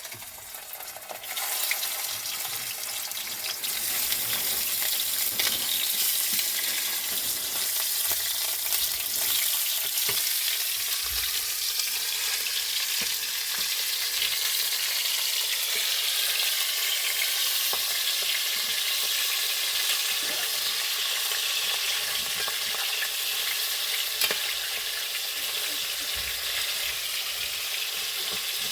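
Food frying in a pan with a steady sizzle that grows louder about a second and a half in, with a few faint clicks.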